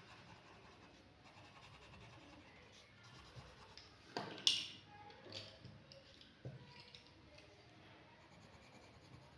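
Pen scratching on paper as lines are drawn: faint, with a couple of sharper strokes about four seconds in.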